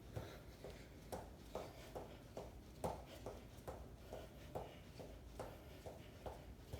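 Feet landing on the floor in a steady rhythm during a bodyweight exercise, about two to three soft thuds a second.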